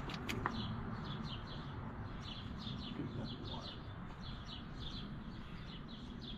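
A small bird chirping over and over, short high chirps about two or three a second, with two sharp clicks near the start.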